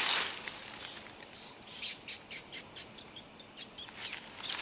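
Forest insects droning steadily at a high pitch, with short, high bird chirps and a brief run of quick ticks.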